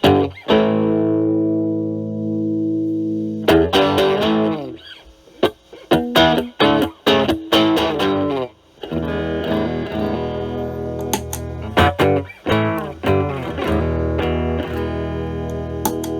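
Stratocaster with single-coil pickups played through a Metal Pedals Rawhide overdrive pedal set at about gain 9 with its kick toggle down, into a Marshall Valvestate amp, giving an overdriven guitar tone. A held chord rings at first. From about three and a half seconds in come short, choppy chords with gaps between them, and after that ringing strummed chords.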